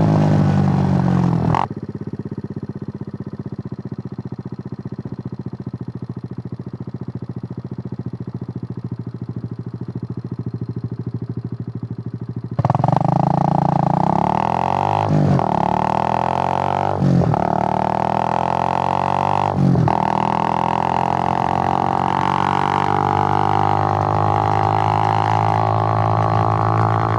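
Suzuki GN125's single-cylinder four-stroke engine slows and settles to a steady idle, then about halfway through pulls away loudly, its pitch climbing and dropping back at three gear changes before it holds a steady cruise.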